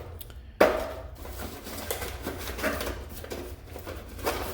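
Small faucet parts being handled: a sharp knock about half a second in, then a few fainter clicks and taps.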